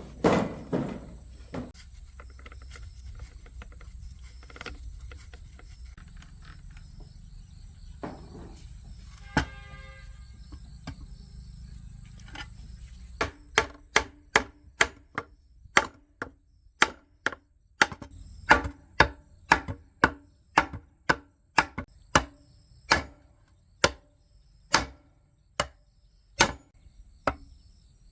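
A low hum with scattered light clicks, then from about 13 seconds in an even run of sharp knocks, about two a second, like a tool striking repeatedly in a workshop.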